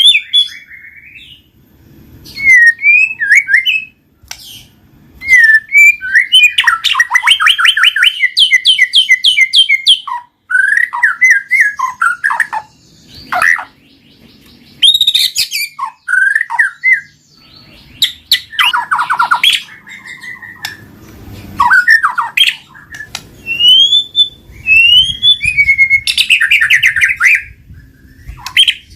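White-rumped shama in full, continuous song: loud, varied phrases of clear whistles broken by fast rattling trills, with short rising whistles near the end.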